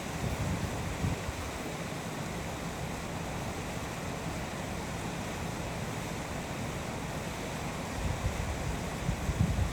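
Steady rushing of a waterfall, with gusts of wind buffeting the microphone about a second in and again near the end.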